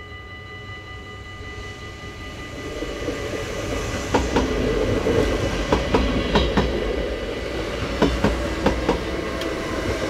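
NS Sprinter electric passenger train approaching and passing a level crossing. It grows louder from about two seconds in, and from about four seconds its wheels click sharply over the rail joints. The crossing's warning bell rings steadily throughout.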